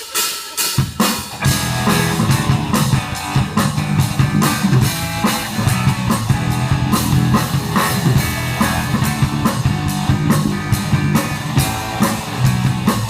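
Live rock band playing a song's instrumental intro: a drum kit keeps a steady beat under bass and guitar, the full band coming in about a second in.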